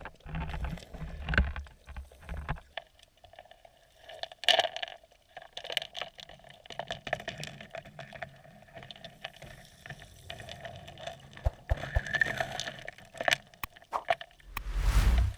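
Sea water heard through a submerged camera: rumbling, bubbling water noise with scattered clicks, and a loud rumbling surge near the end.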